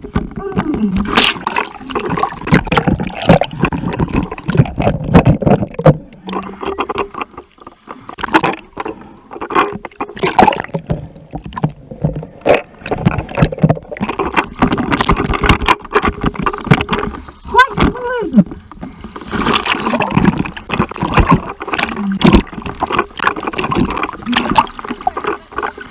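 Sea water splashing and gurgling close to the microphone in irregular bursts.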